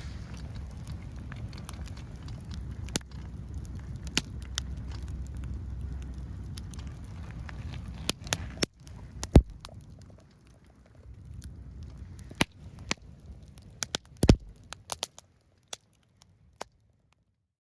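Burning firewood crackling, with sharp irregular pops and a low rumble under it for the first half.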